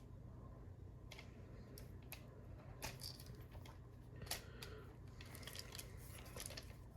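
Scattered faint clicks and light knocks of a plastic Transformers action figure's parts being handled and moved during transformation, about five in all, over a steady low hum.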